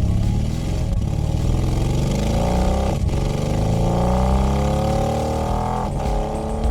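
Synthesized V8 engine sound for an electric vehicle, its pitch climbing with the virtual rpm. It drops abruptly at a virtual gear shift about three seconds in and again near six seconds, climbing again after each shift.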